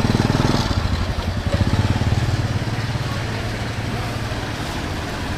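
A motorcycle engine running steadily, loud over the first two seconds, then slowly fading.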